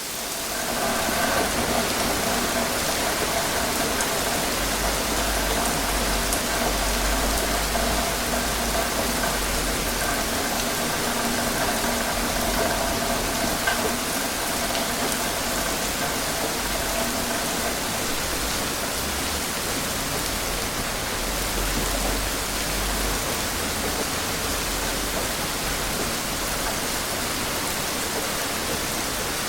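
Steady rain falling, an even hiss. From about a second in until about two-thirds of the way through, a faint steady hum with a low rumble runs under it.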